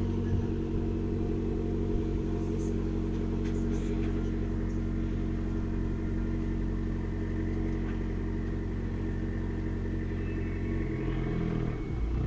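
A steady low engine hum, like an engine idling, holding an even pitch and shifting slightly near the end.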